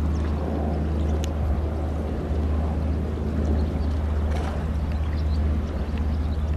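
Boat engine running steadily with a low, constant hum, with some water noise.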